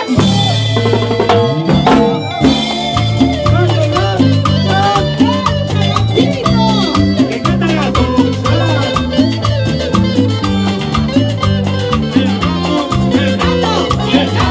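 A Latin dance band plays salsa-style music, with a walking bass line, drum kit and shaker percussion.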